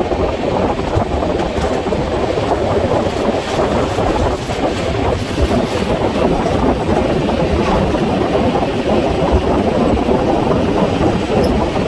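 Telangana Express passenger train running at speed: a steady rumble of wheels on track mixed with rushing air.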